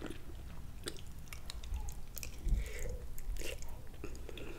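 Close-miked chewing of cooked cabbage and sausage, with small wet mouth clicks. A low thump comes about two and a half seconds in.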